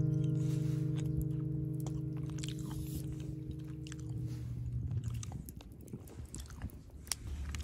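Close-up chewing and biting, with small crunchy mouth clicks, while background music fades out on a held chord over the first four seconds or so.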